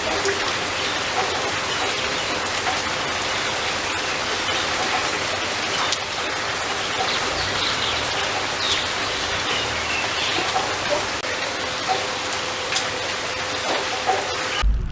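Steady rain falling, a dense even patter. Just before the end it cuts off abruptly, giving way to a low rumble.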